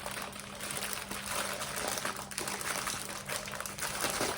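Tiny resin diamond-painting drills pouring back into a small plastic bag: a dense, trickling patter of many little clicks, with the bag crinkling.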